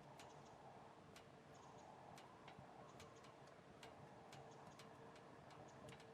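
Faint, irregular sharp crackles and pops of burning firewood, a few a second, over a low, even background hiss.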